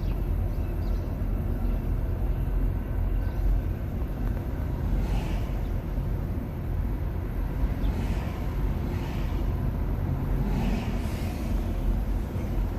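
Road and tyre noise of a Nissan Leaf electric car driving along, a steady low rumble with no engine sound, broken by several brief swishes.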